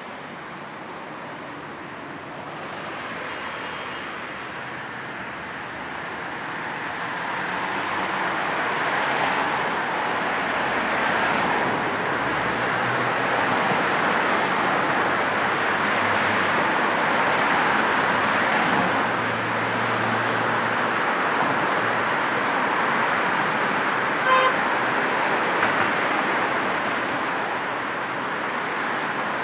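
Steady road traffic, a wash of tyre and engine noise from passing cars that swells over the first few seconds and then holds. A car horn gives one short toot about three-quarters of the way through.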